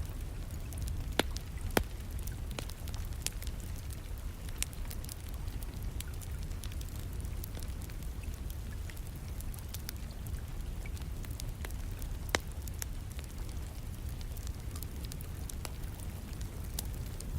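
Wood fire crackling in a fireplace, with scattered small crackles and a few louder sharp pops: about a second in, near two seconds, and around twelve seconds. Under it, a steady low rumble and an even hiss of rain.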